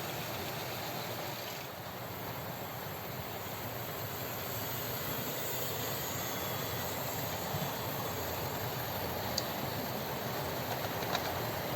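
OO gauge model trains running on the layout: a steady rumble and whir of wheels and motors on the track, with two sharp clicks late on.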